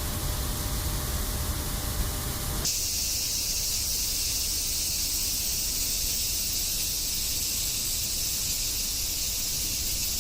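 A low, steady mechanical rumble, suddenly replaced about three seconds in by a steady high-pitched hiss.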